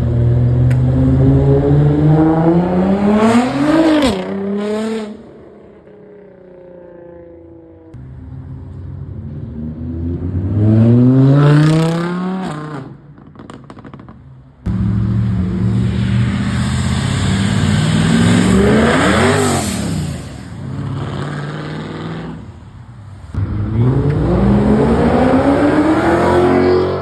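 Car engines revving hard as cars accelerate away one after another: four separate pulls, each engine note climbing steeply in pitch, the third rising and then dropping as the car goes past.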